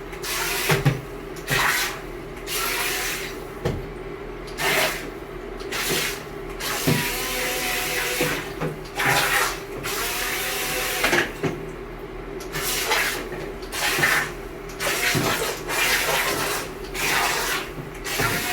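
Syma Q9 RC speedboat's twin electric motors running and its propellers churning the bathtub water, in repeated surges of splashing as the throttle is worked, with a steady motor hum underneath.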